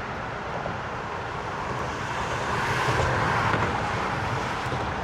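Road traffic going by, a steady rush of tyres and engines that swells as a vehicle passes about three seconds in.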